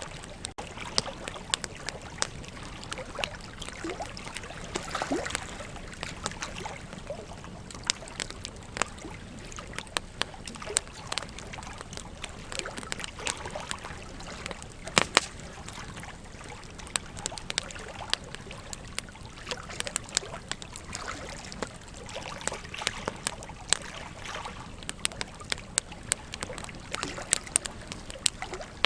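Burning wood crackling with frequent sharp pops, the loudest about halfway through, over a steady rush of flowing river water.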